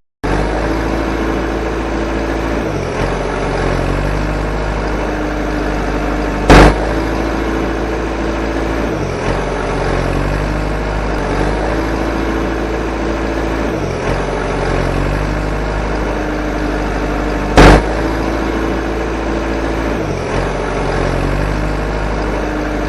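Motor of a DIY mini tractor running steadily, its pitch dipping briefly every two to three seconds as if under changing load. Two sharp loud clicks, about six and a half and seventeen and a half seconds in.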